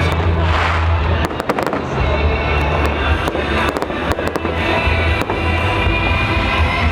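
Fireworks going off in a rapid series of sharp bangs and crackles, with loud music with a heavy bass line playing alongside.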